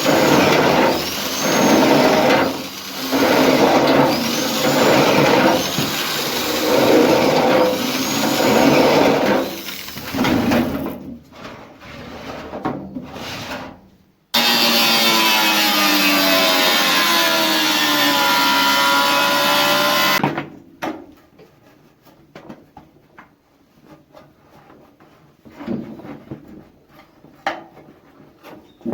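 Hand-tool work on sheet metal: rasping strokes about every second and a half for roughly ten seconds. Then a power tool runs steadily for about six seconds with its pitch gliding, and light clicks and taps follow.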